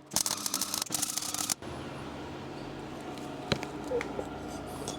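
MIG welder arc crackling and spitting in one short burst of about a second and a half, a final small spot of weld on an exhaust mount bracket. A steadier, quieter hum follows, with a single sharp click.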